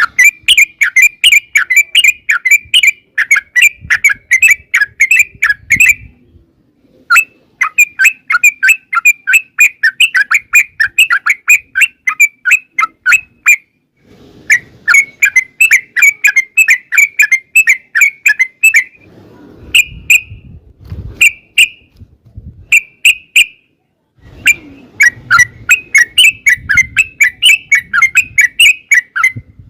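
Yellow-vented bulbul (trucukan) singing long, fast chattering runs of short bubbly notes, several seconds each with brief breaks. The later runs carry a faint low rumble underneath.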